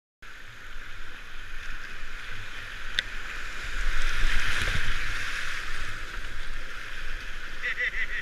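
River water rushing and splashing around a kayak, with low wind rumble on the microphone. It cuts in suddenly and grows louder about four seconds in.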